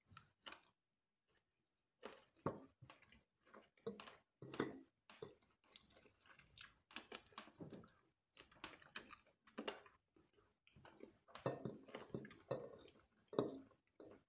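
Faint close-up chewing of fried chicken and spaghetti, heard as irregular short mouth clicks and smacks. There is a quiet pause of about a second near the start.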